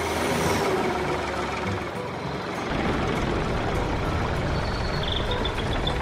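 Sound effect of a tractor's engine running as it drives along, a steady noisy rumble that gets deeper about two and a half seconds in.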